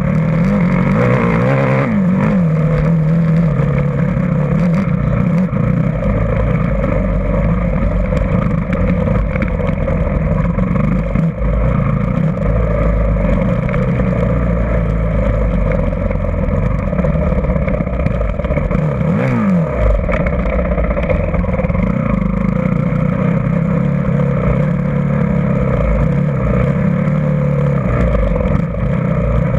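Dirt bike engine running under load as it is ridden, the revs rising and falling with quick swings near the start and again about two-thirds of the way through.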